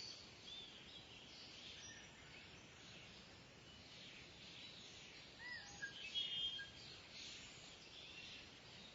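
Faint outdoor ambience with a steady high hiss and scattered bird calls, a few short whistled calls and a brief louder call a little past halfway.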